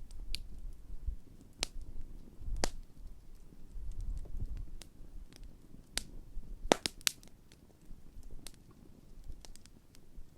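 Large campfire of wood burning, crackling with irregular sharp pops over a low rumble of flames; a quick cluster of the loudest pops comes about seven seconds in.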